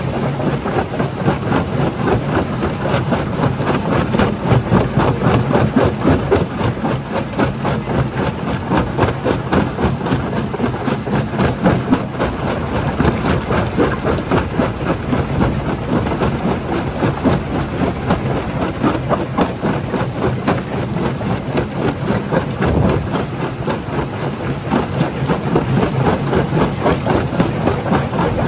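Rock crusher running, with a steady low machine hum under a dense, continuous clatter of stone being crushed.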